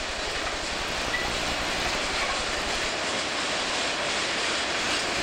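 A freight train passing close by: a steady noise of cars rolling on the rails, with a low throb that fades about three seconds in.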